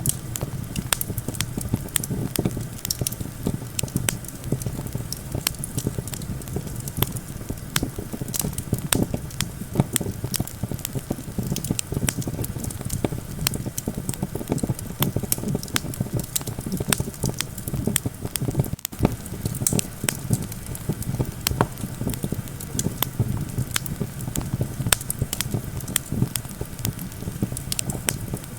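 Wood campfire crackling, with frequent sharp pops and snaps, over a steady low rumble of wind.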